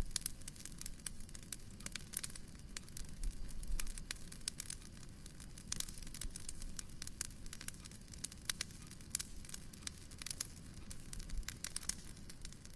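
Wood fire in a fireplace crackling, with dense irregular snaps and pops over a low steady rumble.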